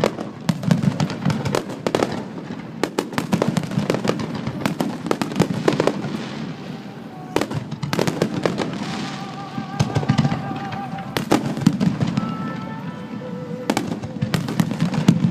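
Fireworks display finale: shells bursting in rapid succession, many bangs a second with crackling, over a continuous low rumble from the explosions.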